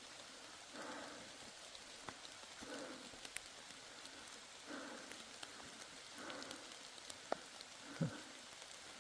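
Steady light rain pattering on the woodland, with soft swishes about every two seconds and a few sharp taps, the loudest near the end.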